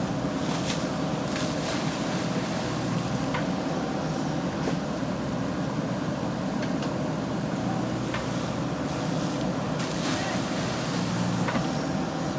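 Diesel engine of a JCB 3DX backhoe loader running steadily, with a few faint clicks over it.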